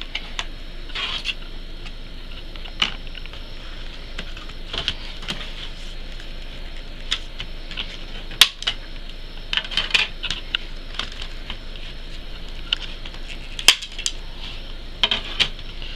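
Hands handling a boxed Blu-ray set and its packaging: scattered light clicks and taps with short bursts of rustling.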